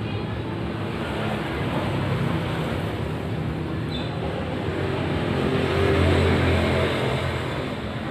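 A motor vehicle engine running close by, growing louder to a peak about six seconds in and then easing off as it passes.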